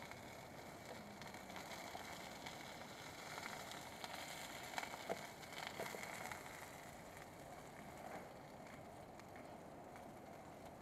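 Faint campfire-cooking ambience: a steady hiss with a few sharp crackles about halfway through.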